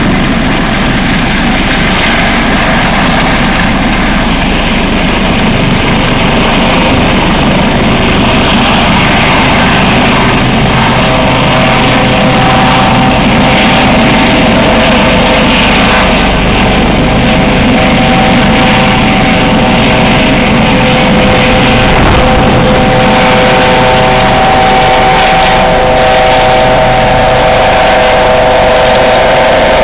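US Coast Guard helicopter's turbine engines and rotor running loud and close as it takes off, with a steady high whine coming in about eleven seconds in.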